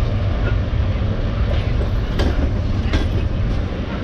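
Passenger coaches of a departing train rolling past close by: a steady rumble of wheels on rails, with two sharp wheel clacks over rail joints about three-quarters of a second apart.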